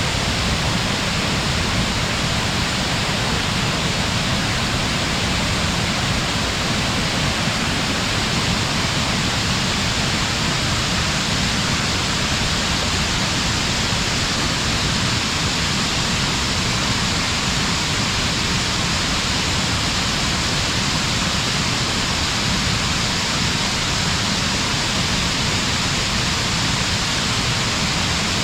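Fukiware Falls, a broad waterfall pouring into a rock gorge, rushing in a steady, even roar heard from some way off.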